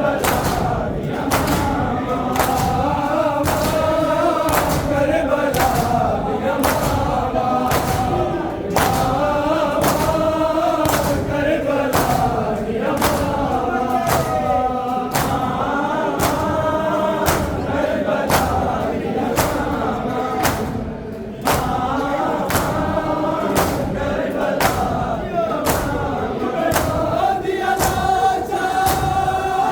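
A crowd of men chanting a Muharram noha in unison, kept in time by a steady beat of matam (hands striking chests) roughly once every three-quarters of a second.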